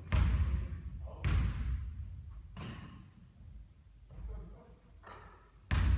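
A basketball thudding against hard surfaces about six times, spaced roughly a second apart, with the loudest hits near the start and the end. Each thud carries an echo.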